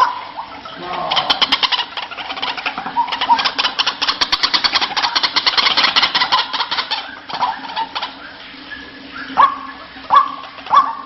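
White-breasted waterhen (ruak-ruak) calling: a rapid series of repeated notes lasting several seconds, then a few separate calls that sweep sharply downward near the end.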